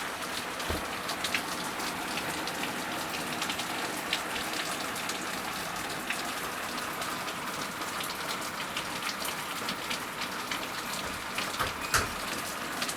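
Torrential rain pouring steadily, with many sharp splats of heavy drops and drips throughout, and one louder splat near the end.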